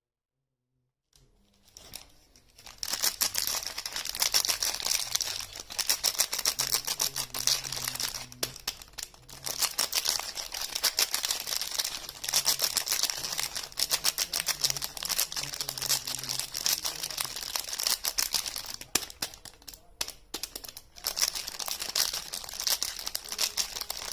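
Soap packaging being crinkled and torn open by hand: a dense crackling that starts about a second in and carries on with a few brief pauses.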